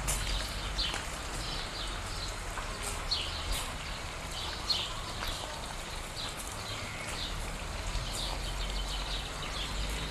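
Birds chirping in the trees: short, repeated downward chirps, over a low steady rumble.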